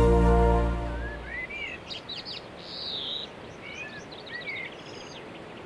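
Background music fades out in the first second or so, then a bird sings a series of short whistled notes and chirps, rising and falling, with a quick run of chirps near the end, over a steady background hiss.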